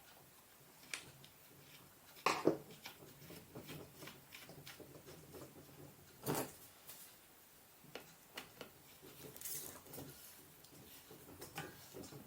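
Scattered clicks and knocks of mountainboard truck parts and tools being handled and fitted. The loudest are a pair of knocks about two seconds in and another about six seconds in, with softer taps and clicks between.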